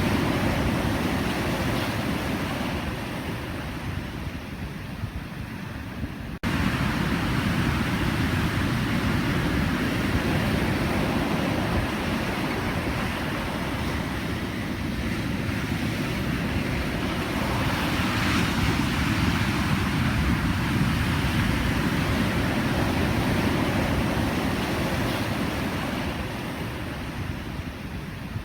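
Ocean surf: waves breaking and washing in a continuous rush that swells and ebbs, loudest past the middle. About six seconds in the sound drops out for an instant and comes back louder.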